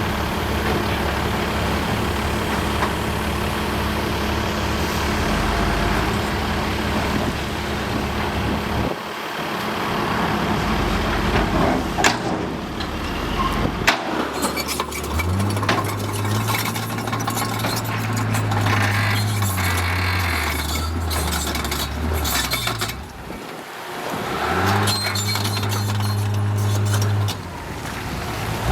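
Heavy diesel construction machinery running, its engine note shifting up and down as it works, with a couple of sharp metallic clanks near the middle.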